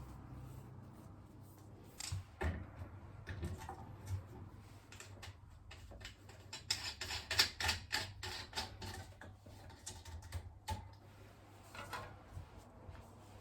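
Plastic parts of a disassembled electric fan being handled: irregular clicks, taps and light knocks, with a denser run of rustling strokes about halfway through.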